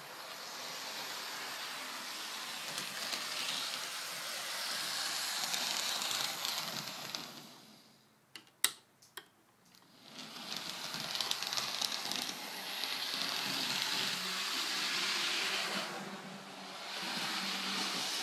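Train running with a loud hiss that swells and eases. About eight seconds in it dies away for a couple of seconds, with two or three sharp clicks, then the hiss returns.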